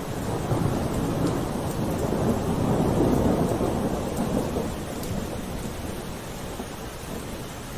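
Steady rain with a low rolling rumble of thunder that swells about three seconds in and then fades away.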